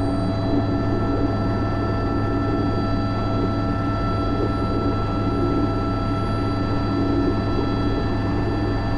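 Airbus H125 (AS350 B3) helicopter in a hover with a sling load, heard from the cockpit: the steady drone of the main rotor and turboshaft engine, with a set of steady whining tones over it.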